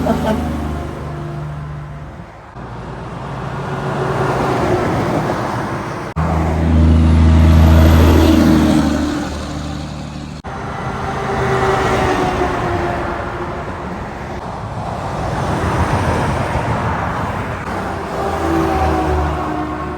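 Highway traffic passing one vehicle after another, tyre noise and engines swelling and fading. The loudest pass, about six seconds in, carries the low, heavy drone of a big diesel truck. Sudden jumps in the sound about six and ten seconds in.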